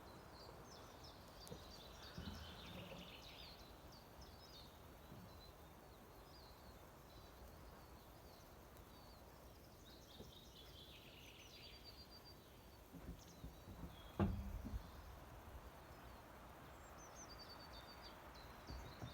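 Small birds singing in short chirping phrases that come and go, over faint outdoor background noise. One sharp knock with a low thud about 14 seconds in.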